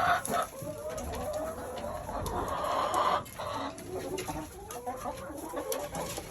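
A flock of hens clucking and murmuring continuously, many overlapping short calls, as they come to feed.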